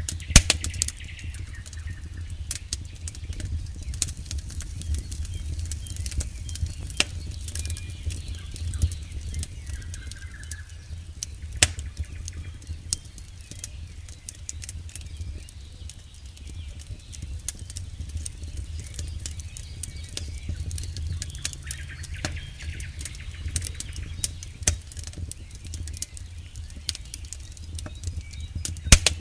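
Campfire burning: scattered sharp crackles and pops of burning wood over a steady low rumble of the flames, with a louder pop near the end.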